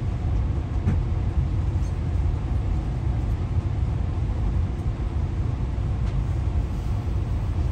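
Steady low rumble of a passenger train in motion, heard from inside a stainless-steel Skyline dome car.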